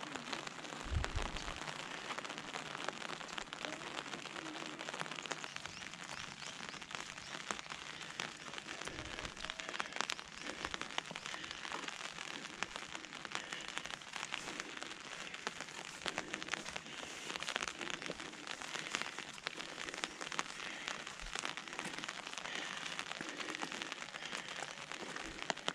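Light rain pattering on an umbrella: a steady hiss of many small drop ticks, with two soft low bumps, about a second in and about nine seconds in.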